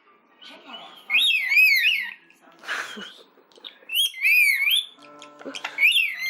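Pet rainbow lorikeet making three warbling, whistle-like calls that swoop up and down in pitch, mimicking a person's whistling. A short breathy puff comes between the first and second calls.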